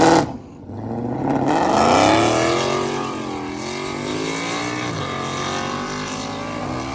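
A car engine revving hard, dropping off briefly, then accelerating with a climbing pitch before settling into a steady drone.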